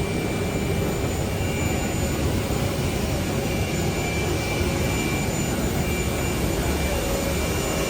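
Steady jet engine noise heard inside the cabin of a Boeing 737-500 airliner, with a few faint high whining tones over it.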